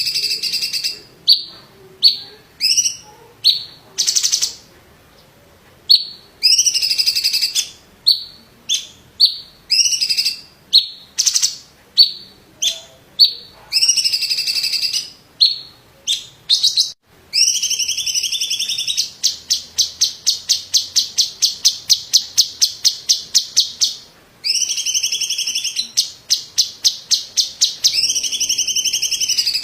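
Cucak ijo (green leafbird) singing loudly in short, repeated whistled phrases, with a fast rattling run of sharp notes, about five a second, near the middle.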